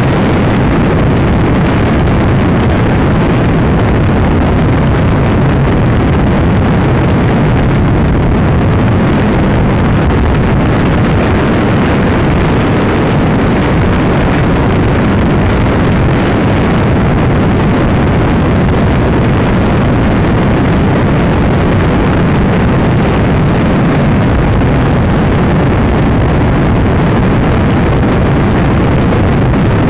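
Honda Supra X 125's single-cylinder four-stroke engine running flat out during a top-speed run, mixed with heavy wind rush over the microphone. The sound is loud and steady throughout, with no clear pitch changes.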